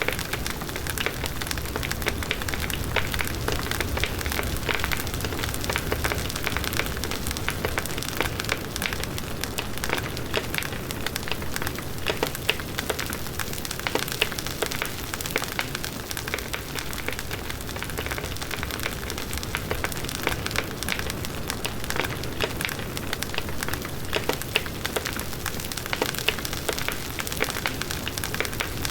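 Large wood bonfire burning steadily, with a dense stream of small crackles and pops over the rushing of the flames.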